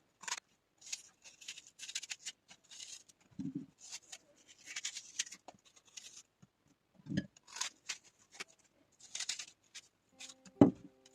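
Kitchen preparation sounds: a run of short, scratchy rustling and scraping strokes, with two soft thumps. A knock comes near the end as music begins.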